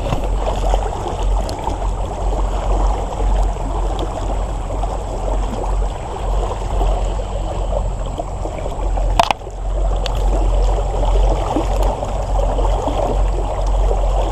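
Creek water running and rippling steadily, with a low rumble underneath. One sharp click about nine seconds in.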